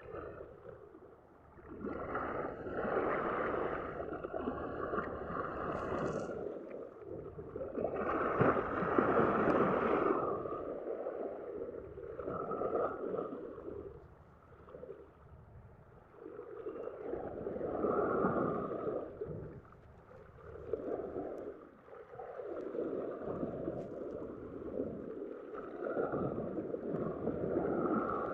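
Black Sea waves washing in, the noise swelling and fading again every few seconds.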